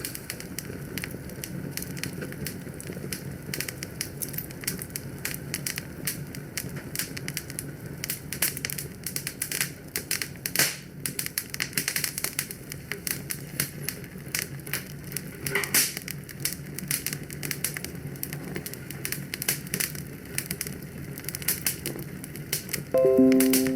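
Wood fire in a fireplace crackling, with dense irregular pops and snaps over a steady low rumble of burning. Near the end a short, loud pitched tone cuts in.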